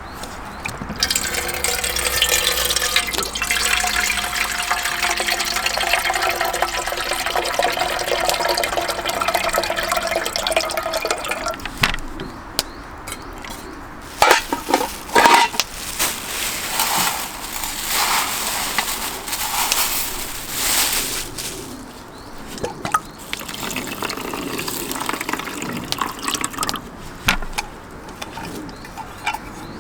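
Water pouring steadily into a container for about twelve seconds, then scattered knocks and clatter as things are handled.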